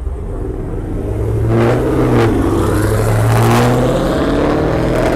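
Car engine revving hard, coming up about a second in, the revs rising and falling several times.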